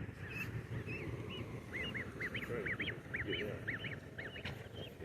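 Newly hatched goslings peeping: a run of short, high, rising-and-falling peeps, several a second, from more than one chick.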